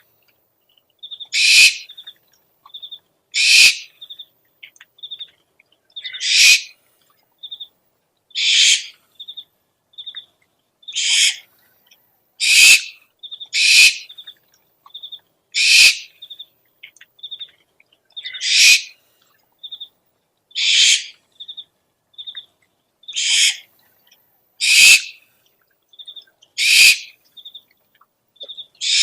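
Owl calls: a harsh, rasping screech repeated about every two seconds, with short, high, clear pips, often in pairs, between the screeches.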